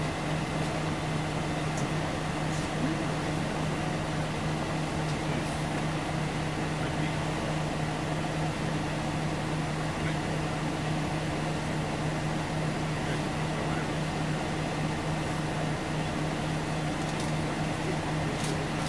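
Interior of a Scania OmniLink CL94UB city bus: the diesel engine runs at a steady speed with a constant low hum, over the general rumble of the passenger saloon.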